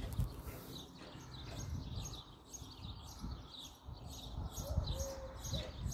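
Small birds chirping over and over, short high chirps about three a second, over a low rumble.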